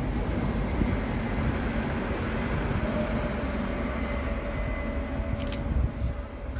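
Passenger train running past on the line, a steady rumble with faint steady tones over it, and a sharp click near the end.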